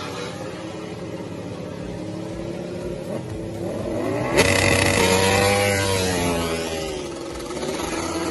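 Yamaha Vixion motorcycle's single-cylinder four-stroke engine breathing through a Lone Rider cone racing exhaust, idling, then revved once: the pitch climbs from about three seconds in, peaks and falls back to idle near the end.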